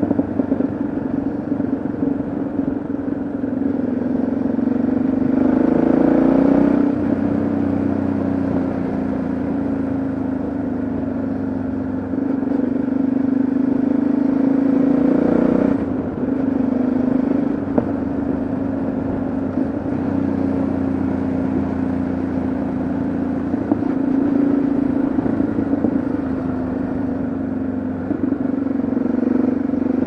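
Yamaha XT 660Z Ténéré's single-cylinder engine running under way, heard from the moving bike with wind noise. Its note climbs and then drops sharply twice, about a quarter and about halfway through.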